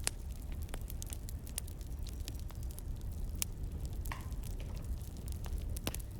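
Wood fire burning, with irregular sharp crackles and pops over a low, steady rumble.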